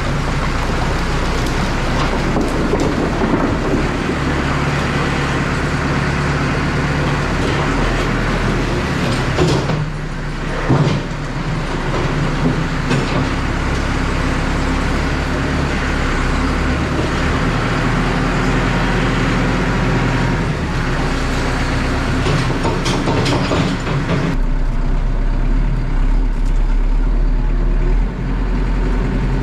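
Farm tractor engine running steadily while firewood logs knock and clatter as the load is tipped and scooped with the loader bucket. Near the end the clatter stops and the engine note turns deeper.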